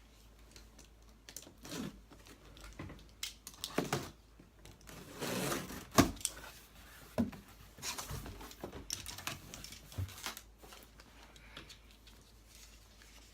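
A large cardboard box being opened and unpacked: scattered knocks, rustling and tearing of cardboard and packing, with a longer scraping stretch about five seconds in and one sharp knock about six seconds in.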